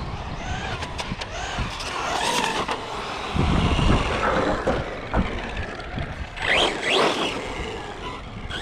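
Electric RC cars' motors whining, the pitch rising and falling with the throttle, with a heavier low rumble about three and a half seconds in.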